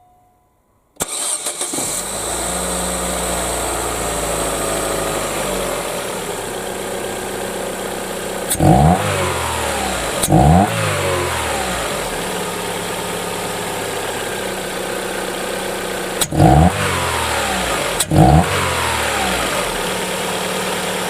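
Chevrolet Lacetti petrol four-cylinder engine idling steadily after a second of near silence, blipped four times, in two pairs of quick revs that rise and fall back to idle. It runs with its freshly cleaned injectors, which still differ in flow, so the speaker says it runs no miracle better than that.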